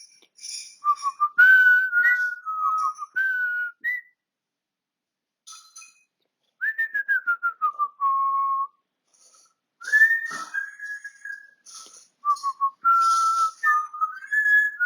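African grey parrot whistling in three phrases: a run of short whistled notes, then one note gliding downward, then another run of notes.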